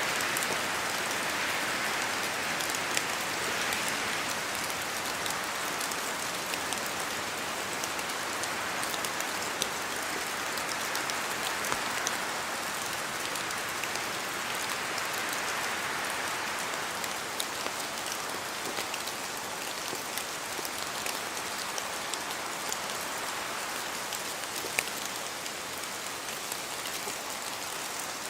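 Steady rain falling in a spruce forest, a dense hiss with scattered single drops ticking sharply above it. The hiss swells and eases slowly every several seconds as wind moves through the spruce trees.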